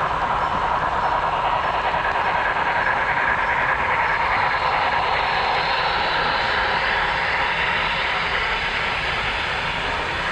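HO scale model train running along the layout track: a steady running noise of wheels and motor that swells slightly over the first few seconds and eases off a little near the end.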